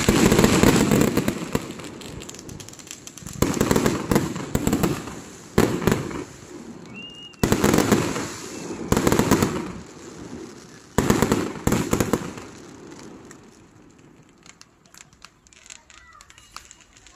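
Bundled cake fireworks firing aerial shells: a string of loud bursts a second or two apart with crackling between them, dying away over the last few seconds.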